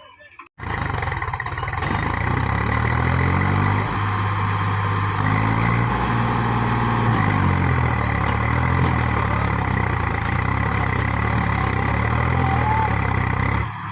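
Swaraj tractor's diesel engine running, its pitch rising and falling as it is throttled up and down. It starts abruptly about half a second in and cuts off just before the end.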